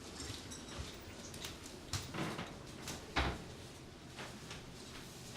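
Scattered light knocks and clicks, with one heavier thump a little after three seconds in.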